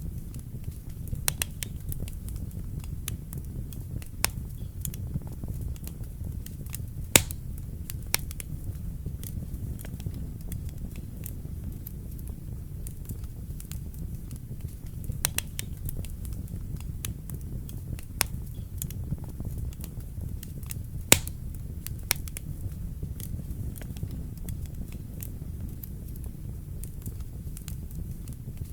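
Wood fire burning in a fireplace, a steady low rumble with scattered sharp crackles and pops, two of them louder than the rest.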